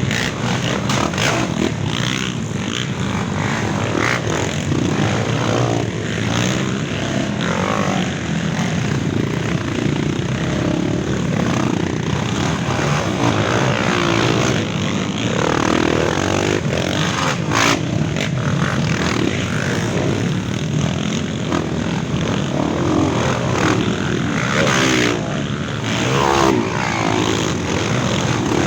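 Many dirt bikes riding together, their small single-cylinder engines revving up and down and overlapping into a continuous buzz, as a pack of trail motorcycles moves off after a mass start.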